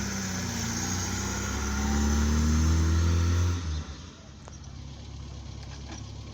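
Opel Manta's engine pulling away under acceleration, its pitch rising steadily, loudest just before it drops off sharply a little under four seconds in. A quieter, steady low engine sound carries on after.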